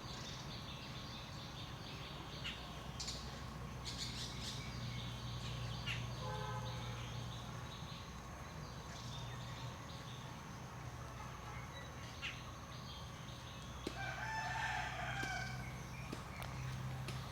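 Outdoor ambience with a steady thin high tone and a low hum, broken by a few brief animal calls. The clearest is a pitched call lasting about a second and a half near the end.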